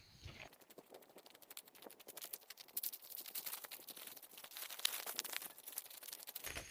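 Rapid, quiet dry crackling: many small sharp clicks and rustles, growing denser and a little louder after about two seconds.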